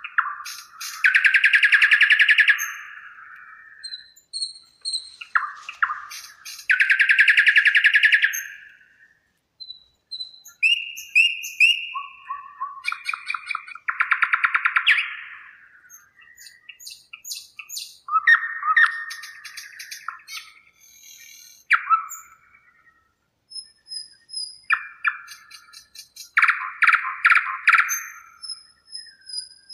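A songbird singing in phrases of rapid trills and chirps, each a few seconds long with short pauses between. The two loudest are long, fast trills about a second in and about seven seconds in. Thin high whistled notes join near the end.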